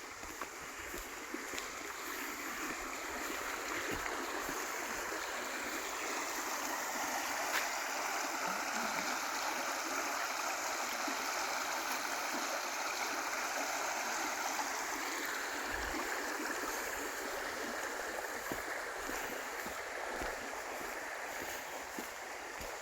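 River water rushing and babbling over stones, a steady rushing that grows louder in the middle and eases again near the end.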